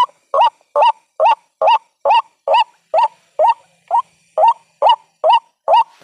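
White-breasted waterhen giving a rapid, evenly spaced run of short rising calls, a little over two a second. It is the waterhen's call used as a trapping lure.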